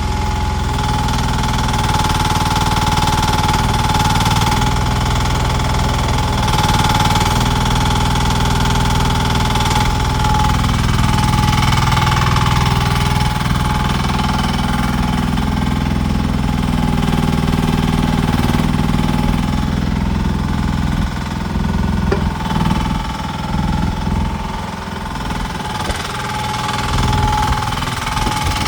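Koop diesel engine of a 1500 kg mini excavator running steadily, with a steady high whine over its low note. The engine note turns uneven for several seconds near the end.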